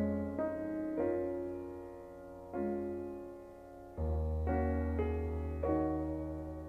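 Background piano music: slow, gently struck chords and notes that ring and fade, with a deep bass note held from the middle onward.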